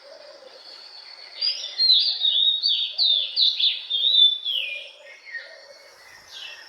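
A songbird singing a loud phrase of quick, falling notes that starts about a second and a half in and lasts about three seconds, with fainter calls from other birds around it.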